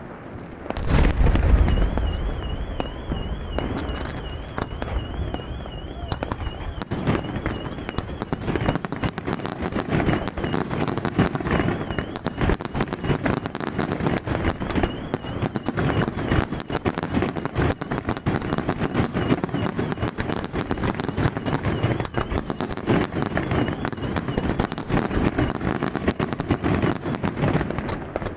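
Aerial fireworks display: a heavy boom about a second in, then a dense, unbroken run of bangs and crackling shells. A high warbling whistle runs under the bangs for most of the time.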